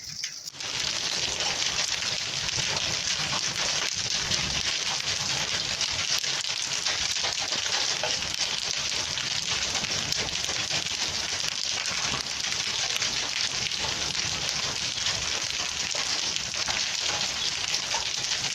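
Heavy rain mixed with hail pelting down: a dense, steady hiss of countless small hits that begins abruptly about half a second in.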